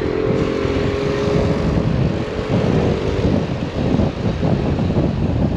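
Small moped riding along, with wind buffeting the microphone: the engine's steady hum is heard for about the first second and a half, then fades under uneven gusting wind noise.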